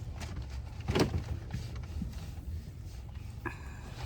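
Low, steady rumble of a car's engine heard from inside the cabin, with a single sharp knock about a second in.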